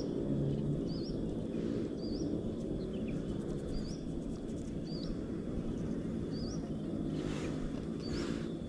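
A bird repeating a short, high, rising chirp about once a second, over a steady low rumble.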